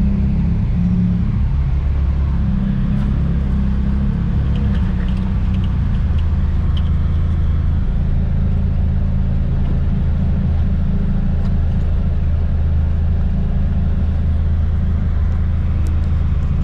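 A car being driven, its engine and road noise making a steady low rumble.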